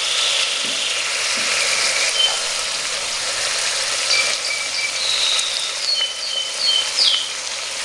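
Oil and butter sizzling in a pot with chicken pieces, onion and chickpeas frying. In the second half a run of short high whistled notes sounds over the sizzle.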